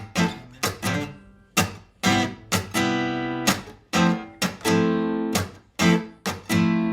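Martin GPCPA4 acoustic guitar strumming chords in a steady rhythm, each strum sharp at the start and then ringing on.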